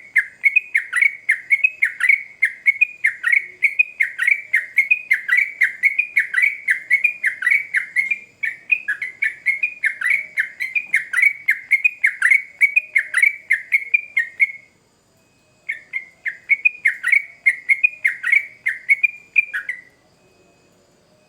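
Sooty-headed bulbul (trucukan) singing a long, rapid run of chirping notes, about three a second, each note dropping in pitch. The run breaks off briefly after about 14 seconds, resumes, and stops about a second before the end.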